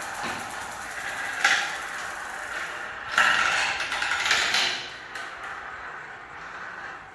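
Marbles rolling down a marble-run track, a rattling rolling noise that surges about a second and a half in and again from about three to five seconds, then dies away.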